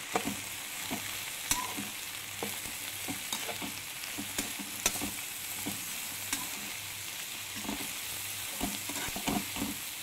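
Cut okra and sliced onions sizzling in hot oil in a metal kadhai, stirred with a spatula that scrapes and clicks against the pan every second or so, irregularly.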